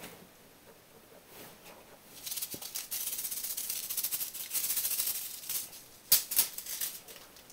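Granulated sugar rattling inside a paper sugar packet as a cat bats it about: a dense shaking rattle from about two seconds in, then a few sharper shakes near the end.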